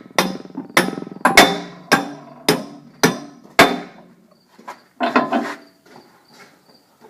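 A hammer striking a screwdriver, used as a punch to drive a pin out on a tractor. Seven sharp strikes come about two a second, then stop.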